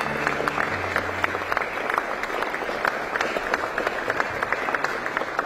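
A banquet hall full of standing guests applauding steadily, many hands clapping together, to welcome the guests of honour as they enter.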